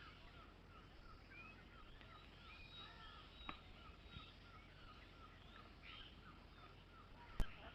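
Faint birdsong: one bird repeats a short chirp about three to four times a second while other birds call over it. A sharp click near the end is the loudest sound.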